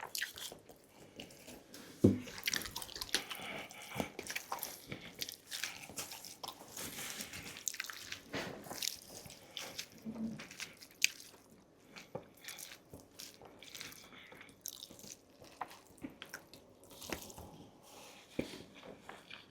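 Close-miked wet eating sounds: sticky chewing with lip smacks and moist mouth clicks at an irregular pace, with a sharper click about two seconds in.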